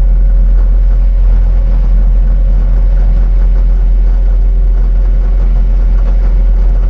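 Engine of a piece of earthmoving equipment running steadily, a loud even drone with a constant low hum and steady tones above it.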